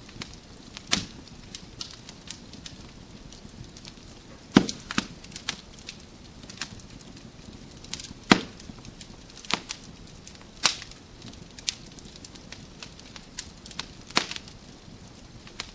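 Wood fire crackling in a fireplace: irregular sharp pops and snaps of burning logs over a low steady hiss, the loudest pops about four and a half and eight seconds in.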